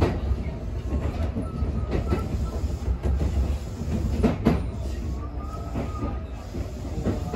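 Kintetsu electric train heard from inside the driver's cab, running with a steady low rumble and several sharp clacks as the wheels cross rail joints and points, plus a faint high wheel squeal twice.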